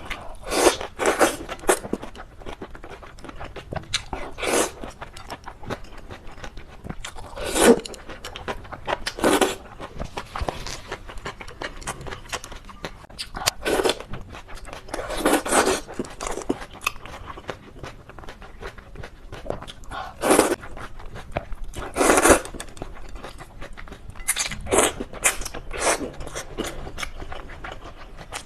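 Close-miked eating of chicken noodles: chewing and mouth noises in short, irregular bursts every few seconds.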